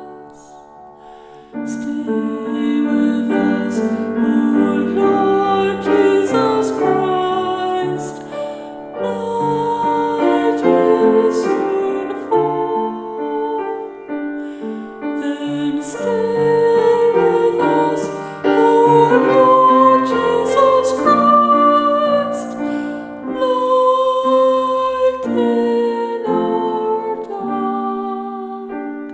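A slow Taizé chant sung over keyboard accompaniment, with the music coming in about a second and a half in.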